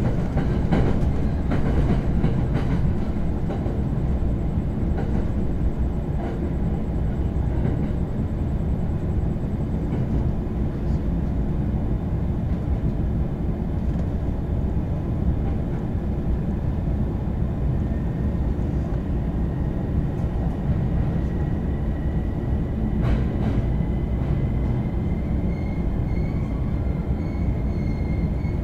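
Steady running noise of a JR East Shonan-Shinjuku Line commuter train, heard from inside the Green Car: a continuous low rumble of wheels on rail with a few light clicks. A faint whine comes in about two-thirds of the way through and rises slightly in pitch.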